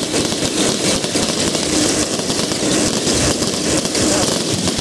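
Fireworks going off overhead in a dense, continuous barrage of rapid crackling and popping, with no let-up.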